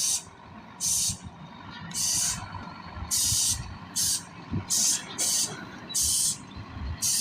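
Heavy truck's compressed-air valve letting out short sharp hisses over and over, about one a second, over the low rumble of the diesel engine.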